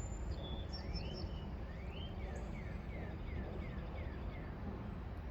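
A songbird singing: two rising notes, then a quick run of about six short falling notes, over a steady low outdoor rumble.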